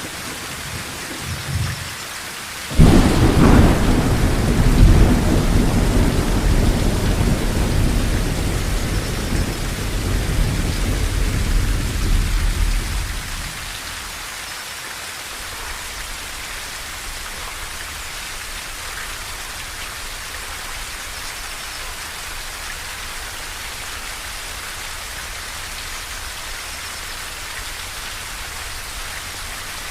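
Steady rain hiss, with a thunderclap about three seconds in that rolls on as a deep rumble for about ten seconds before fading back to the rain alone.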